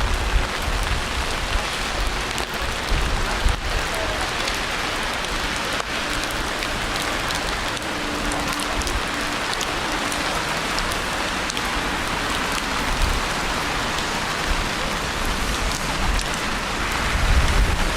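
Steady rain falling, an even hiss of drops on wet surfaces, with a low rumble near the end.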